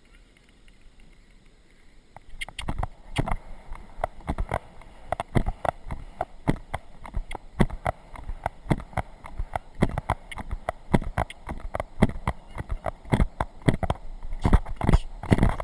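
Horse moving under a rider, heard from a GoPro on board: a run of irregular hoofbeats and jolts knocking through the camera, several a second, starting about two seconds in and growing louder near the end.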